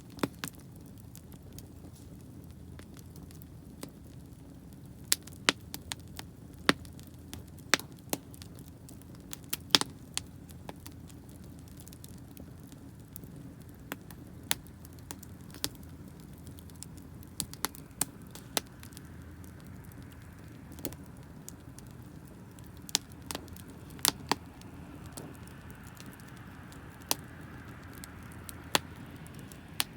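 Wood fire crackling, with sharp pops at irregular intervals over a low, steady background.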